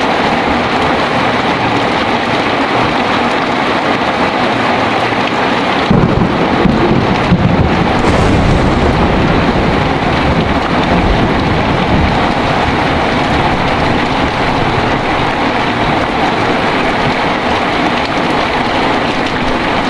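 Heavy rain falling steadily, with a roll of thunder breaking about six seconds in and rumbling away slowly.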